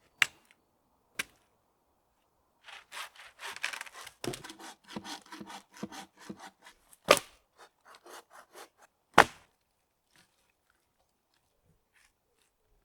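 Hand saw cutting through wood in quick back-and-forth strokes for several seconds. Sharp knocks come before the sawing starts and twice more during it, the last as the sawing stops.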